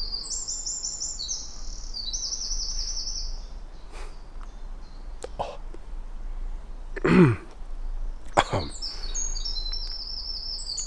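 Eurasian wren singing: a loud, fast, high-pitched song of rapid trills and chattering phrases, one song at the start and another beginning near the end. About halfway through, a single brief loud human vocal noise, close to the microphone, cuts in.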